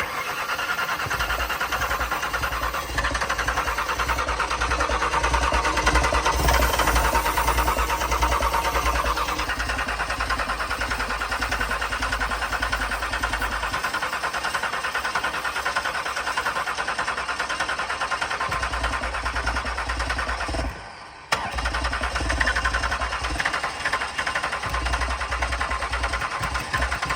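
2004 Ford Taurus V6 engine running with dish soap in its crankcase instead of oil, with a fast, even clatter over a steady hum. It breaks off briefly about three-quarters through, then carries on.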